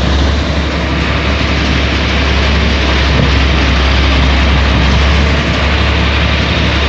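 Heavy road-works machinery with a diesel engine, running loudly and steadily with a deep, unchanging drone.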